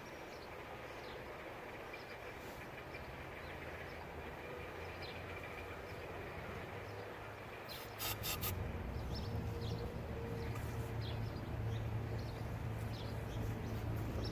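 Small birds chirping against a low background. About eight seconds in come a few sharp clicks, and then a low steady rumble that grows louder.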